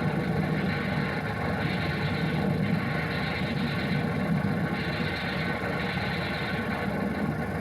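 A dense, steady engine-like rumble on an old film soundtrack, starting abruptly just before and carrying on with no speech over it.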